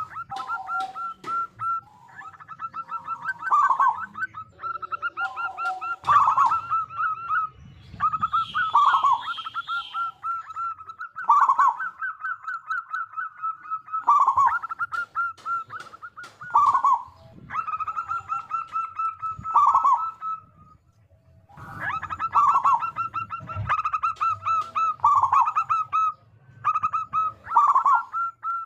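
Zebra doves (perkutut) singing: rapid staccato trains of soft cooing notes, each phrase ending in a lower, drawn-out coo, repeated phrase after phrase with calls overlapping and a short pause about two-thirds through.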